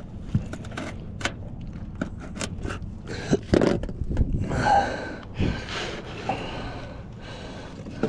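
Handling noises of fishing gear: scattered clicks and knocks, with louder scraping and rustling through the middle.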